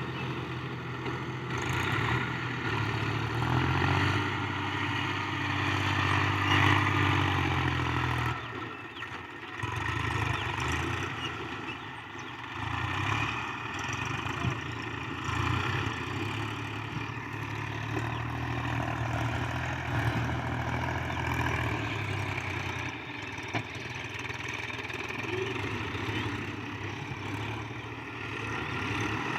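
Tractor engine running steadily under varying load, its note swelling and easing, with a brief drop about nine seconds in.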